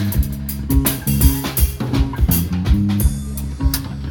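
A live band playing a song: a drum kit keeps a steady beat over a stepping bass line, with guitar.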